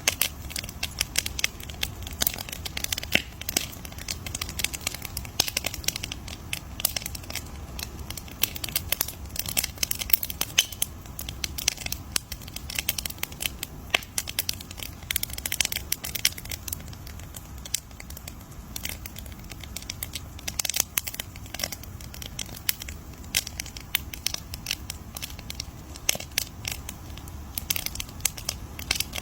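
Wood fire crackling, with dense irregular pops and snaps over a low steady hiss of burning.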